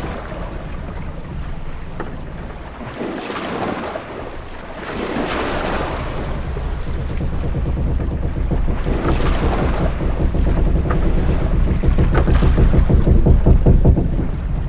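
Sea ambience of a sailing ship: waves washing and surging against the hull over a steady low wind rumble that builds toward the end, with a few faint knocks.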